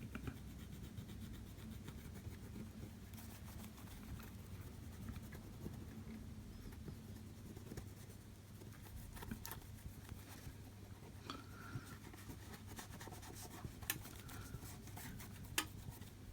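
Faint rubbing and scratching as a cloth wipes leftover glue off an iPhone LCD's surface, with a few light clicks and a steady low hum underneath.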